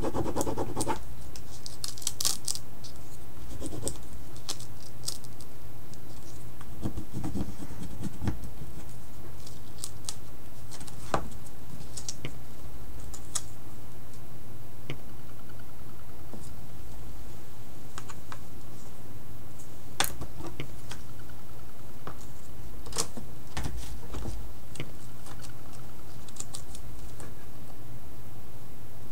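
Scattered light taps, clicks and short scratches of art tools working on a painting surface, over a steady low hum.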